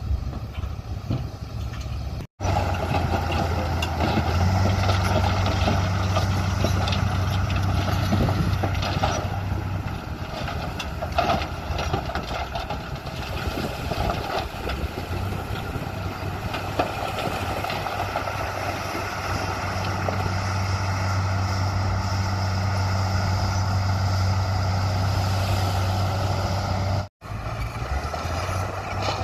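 Heavy diesel earthmoving machinery running steadily with a deep, constant engine drone, cutting out for an instant twice, a couple of seconds in and near the end.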